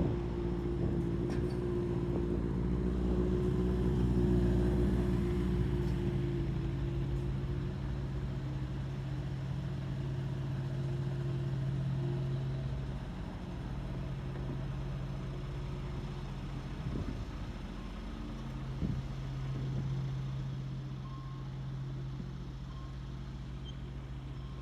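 Motorcycle engine running with a low, steady hum, likely slow or at rest in city traffic. The hum drops away for a few seconds about halfway through, then comes back.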